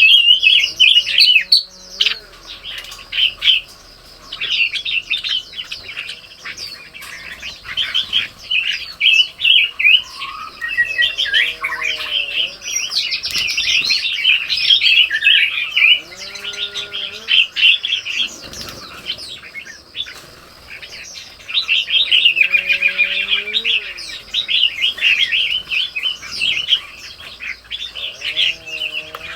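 Songbirds, red-whiskered bulbuls among them, chirping and chattering busily without pause. A lower, arching call is heard five times over the span.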